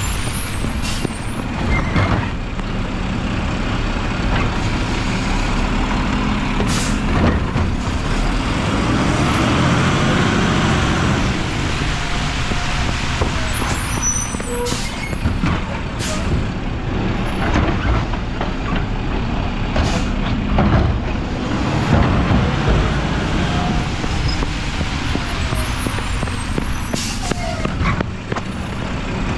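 Mack LR garbage truck's diesel engine running steadily, with a few short, sharp air-brake hisses.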